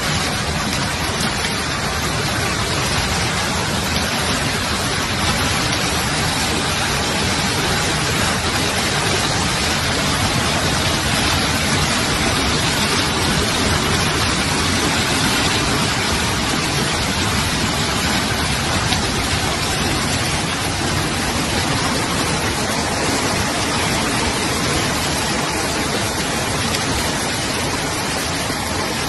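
Hailstorm: hail and heavy rain pelting down in a dense, steady hiss with no let-up.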